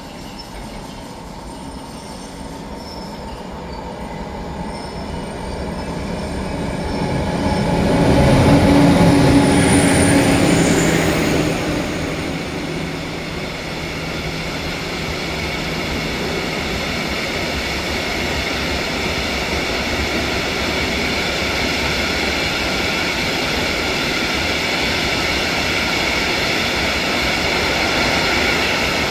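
Freight train passing close by. It grows louder as the locomotive approaches and is loudest about eight to eleven seconds in. Then a long line of open-top freight wagons rolls past with a steady rumble and a high steady whine from the wheels.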